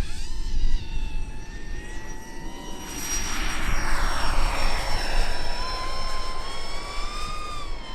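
Electric ducted fan units of a large RC Boeing 777-9X model airliner running with a high, layered whine whose tones slowly shift in pitch. A rushing swell builds about three seconds in and falls away over the next few seconds.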